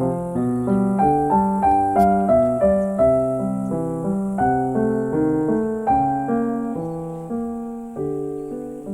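Background piano music: a calm piece of struck notes and chords, each note fading after it is played.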